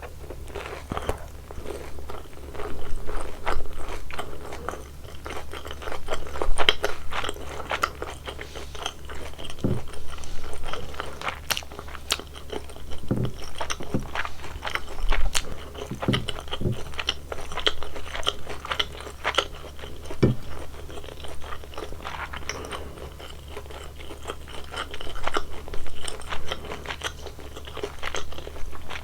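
Close-miked chewing of crispy fried glutinous-rice sweet-and-sour pork: repeated crunching bites and chews of the battered coating, coming in bouts, over a steady low hum.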